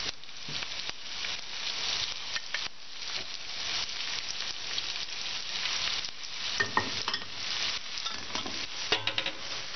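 Diced onion, minced garlic and sliced green pepper sizzling steadily in melted butter in a frying pan, with a few light clicks about seven and nine seconds in.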